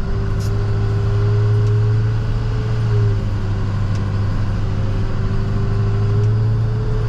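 Plow truck's engine running steadily while driving, a strong low hum with a fainter whine that rises slightly in pitch and drops back twice.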